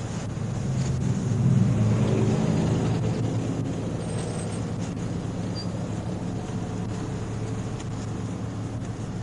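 Motor vehicle engine running with a steady low hum that swells louder between about one and three seconds in, then settles.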